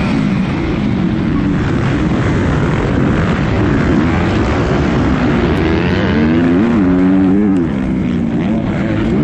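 Motocross bike engine revving up and down as it is ridden, its pitch rising and falling over and over, held high for a moment and then dropping sharply near the end.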